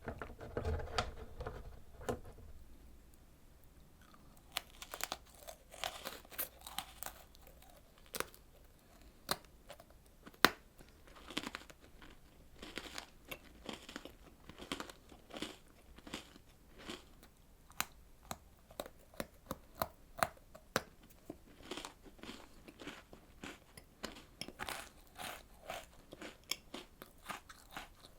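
Close-miked eating: a person biting and chewing food, with many short, crisp crunching clicks at irregular intervals. A low, muffled handling bump comes in the first two seconds.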